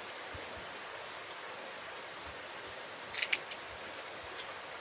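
Steady rush of a mountain stream, with a constant high insect trill over it. A couple of sharp clicks come about three seconds in.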